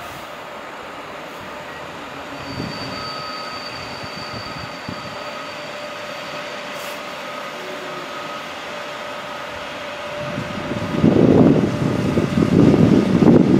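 Electric locomotive hauling a passenger train rolling into the station: a steady hum with faint high whines, and from about ten seconds in a much louder, uneven rumble as it comes closer.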